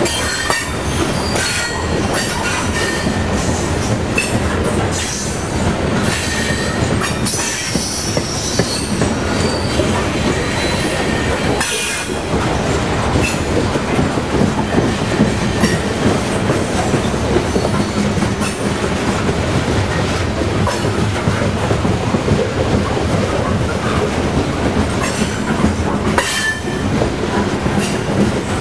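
Coal train's freight cars rolling past, loud and steady: steel wheels rumbling and clacking over rail joints, with occasional high wheel squeals, most in the first third and again near the end.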